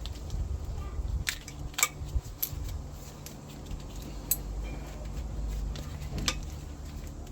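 Several sharp, separate clicks and knocks of hand tools on engine parts as the engine is stripped, over a steady low hum.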